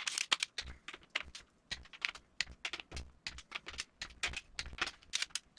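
Hand socket ratchet clicking in quick uneven strokes, several clicks a second, with soft knocks of the tool on the engine under some of them.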